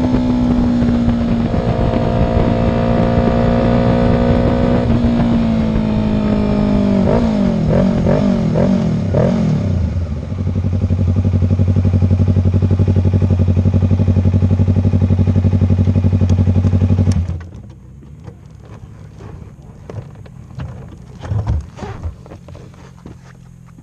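A motorcycle engine running steadily, its pitch dropping and wavering for a few seconds, then settling into a low, even idle before it is switched off suddenly about seventeen seconds in. Afterwards a few light knocks and scrapes.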